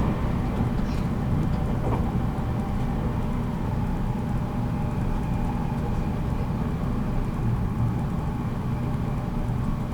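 Running sound heard aboard a JR Kyushu 783 series electric multiple unit motor car at speed: a steady low rumble of wheels on rail with faint steady whining tones above it. There are a couple of light clicks about one and two seconds in.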